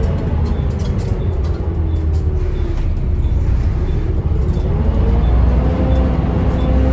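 Volvo B7TL double-decker bus running: a steady low engine rumble with a whine that falls in pitch around the middle, then rises again near the end.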